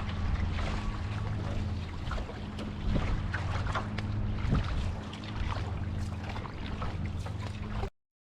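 Wind rumbling on the microphone and water splashing around a paddled outrigger canoe, with scattered short splashes; the sound cuts off abruptly near the end.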